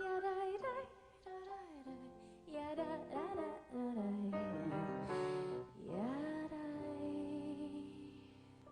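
Woman singing with instrumental accompaniment; about six seconds in her voice slides up into a long held note, and the music fades out near the end.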